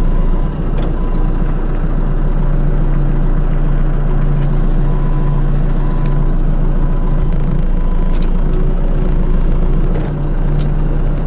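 Vehicle engine running steadily at a constant speed, with a few sharp clicks and knocks over it.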